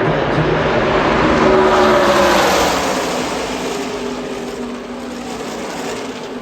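A pack of stock cars at racing speed passing by on the track. Their engine noise builds to a peak about two seconds in, then drops in pitch and fades as the pack moves away.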